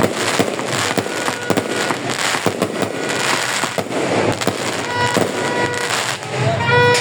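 Fireworks exploding in quick succession, a dense run of bangs and crackling with no pause. Near the end a pitched, horn-like tooting sounds over them.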